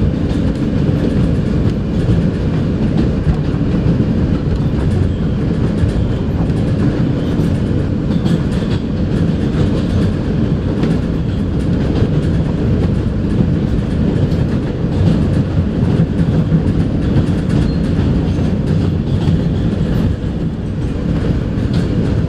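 New York City Subway R160A car running along the track, heard from inside the car: a steady low rumble of wheels on rail with the clickety-clack of rail joints.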